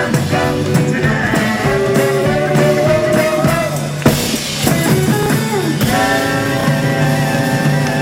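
Live rock and roll band playing without vocals: long held notes over guitar and drum kit, with a couple of sharp drum hits a little past the middle.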